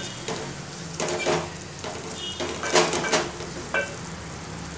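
Wooden spatula stirring and scraping chopped onions frying in oil in a metal pot: a steady sizzle with several scraping strokes against the pot.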